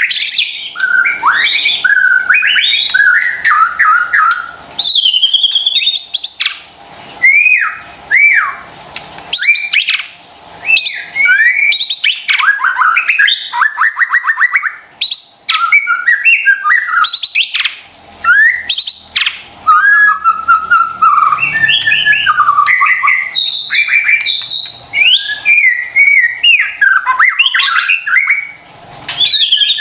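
White-rumped shama (murai batu) singing a long, varied song of loud whistled phrases, pitch glides and fast trills, broken by brief pauses between phrases.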